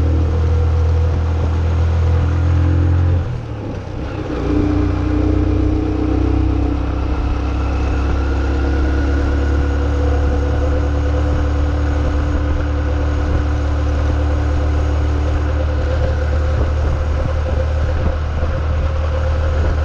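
Wind rumbling on the microphone of a moving bicycle, with a steady engine hum from road traffic on top. The rumble drops briefly about three and a half seconds in.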